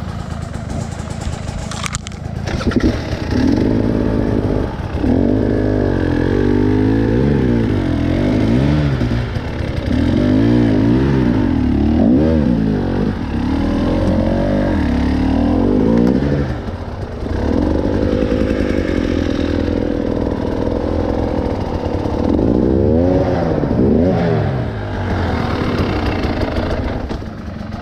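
Off-road motorcycle engine revving up and down over and over under load, the throttle opened and closed repeatedly as it climbs a trail, easing off near the end.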